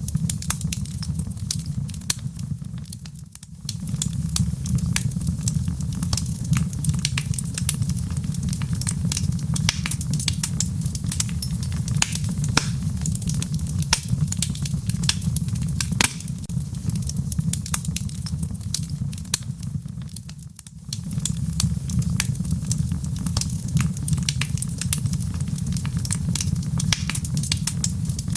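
Wood fire crackling in a fireplace: a steady low rumble of flames under frequent sharp pops and snaps. The sound dips briefly and swells back twice, about three seconds in and about twenty seconds in.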